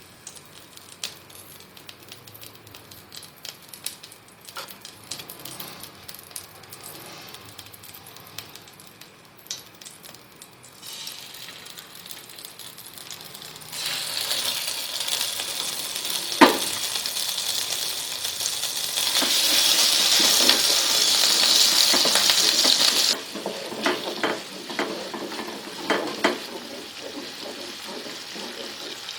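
Scattered light kitchen clinks and knocks, then food frying in hot oil in a pan: a sizzle starts about halfway in, grows loudest for a few seconds and drops off suddenly. Utensil clinks against the pan follow near the end.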